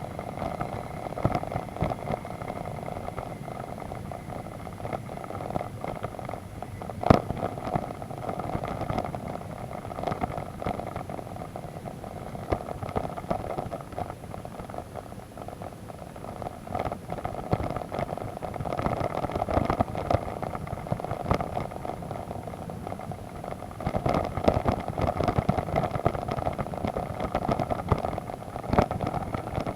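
A vehicle engine running steadily at low speed, with many small knocks and rattles from the ride over rough mud track. There is a single sharp knock about seven seconds in, and the engine grows louder in two stretches later on as it works harder.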